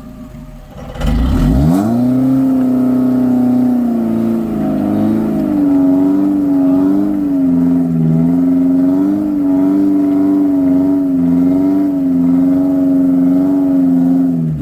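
Suzuki four-wheel drive's engine revving hard under load on a rock climb: the revs shoot up about a second in and are then held high, the pitch wavering up and down as the throttle is worked.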